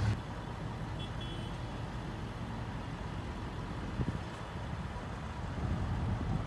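Low, steady rumble of a vehicle engine running, with a brief high beeping about a second in and a single knock about four seconds in.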